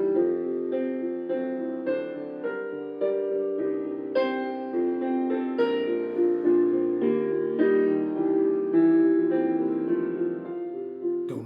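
Solo piano playing a slow, gentle song intro, a karaoke piano backing track: single notes struck about twice a second over held chords.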